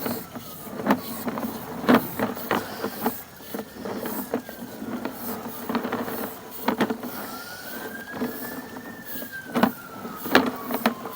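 Sewer inspection camera's push rod being fed down the pipe through the cleanout, with irregular clicks and knocks. A faint whine slowly rises and falls twice.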